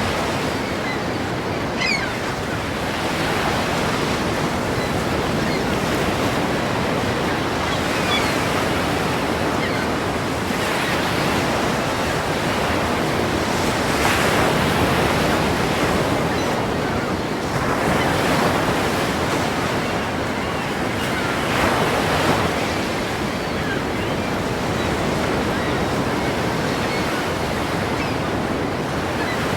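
Ocean waves crashing, a steady rushing wash of surf that swells into louder surges every few seconds.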